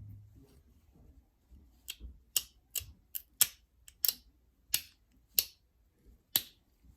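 Flintknapping a novaculite point: about ten sharp, irregularly spaced clicks of small flakes snapping off the stone as it is worked with a flaking tool, starting about two seconds in.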